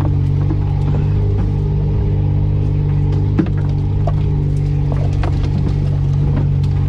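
Off-road 4x4's engine running steadily at low revs as it crawls over rough forest ground, heard from inside the cab, with faint knocks from the body and a single thump about three and a half seconds in.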